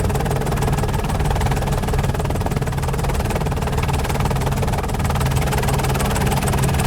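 Steady helicopter engine and rotor noise heard from inside the cabin, a constant low drone with an even, rapid beat.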